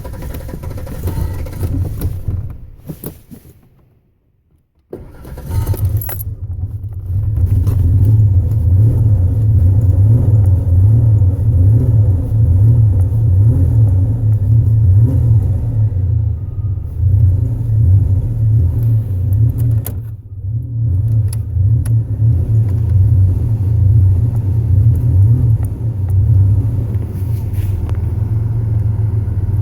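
Car engine cranked for a couple of seconds without catching, then after a short pause cranked again and catching about five seconds in, settling into steady low running: a little hard starting.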